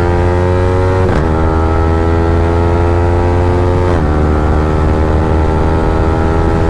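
Yamaha R15M's 155 cc single-cylinder engine with an Akrapovic free-flow exhaust running loud under acceleration, climbing in pitch. Two quick upshifts, about a second in and about four seconds in, each briefly drop the revs before the engine pulls on.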